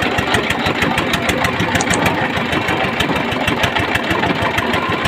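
A boat's engine running steadily with a fast, even clatter of firing strokes.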